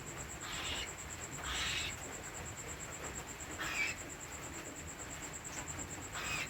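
Cockatiel chicks giving short, raspy, hissing begging calls, four of them about one to two seconds apart.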